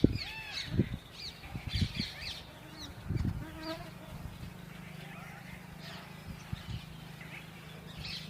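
Honeybee buzzing in flight, a steady low hum that sets in about three and a half seconds in and holds to the end, with birds chirping throughout and a few soft low thuds in the first few seconds.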